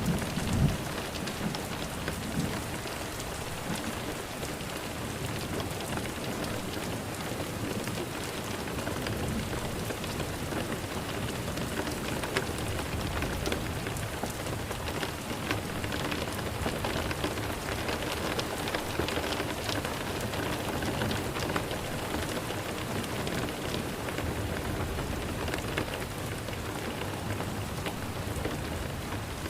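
Steady rain falling, an even hiss dotted with many small drop patters. A brief low thump stands out just under a second in.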